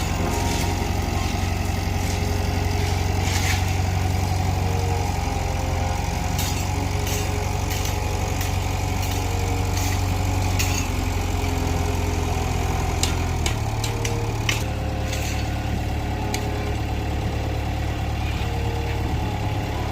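Bulldozer's diesel engine running steadily at low revs, its note shifting slightly about two-thirds of the way through, with scattered short clicks and clanks over it.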